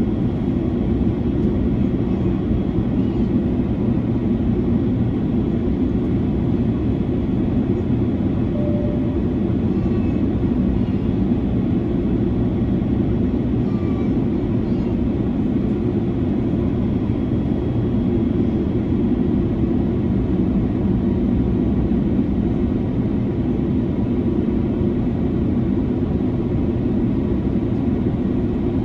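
Steady cabin noise of an Airbus A330-300 at cruise altitude: an even, low engine and airflow noise that holds level throughout.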